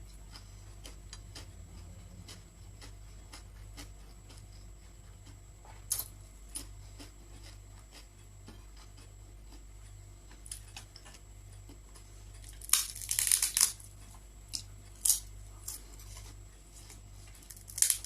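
Eating sounds at close range: faint chewing with scattered small clicks, and a brief burst of crackly crunching about thirteen seconds in, over a low steady hum.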